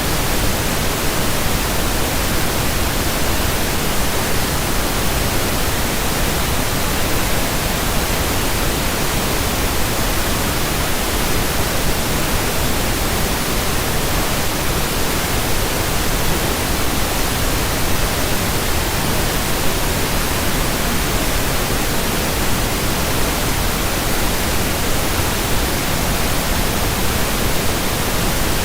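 Pink noise: a steady, even hiss spread across the whole range, without any change.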